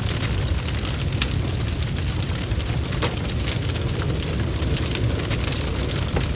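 Wood fire crackling: a steady low rumble of burning with many sharp, irregular pops and snaps scattered throughout.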